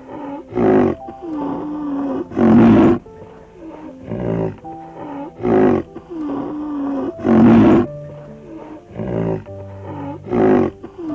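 Background music with held notes, overlaid by an animal roar repeated about seven times. Two of the roars are the loudest. The sequence repeats about every five seconds, like a loop.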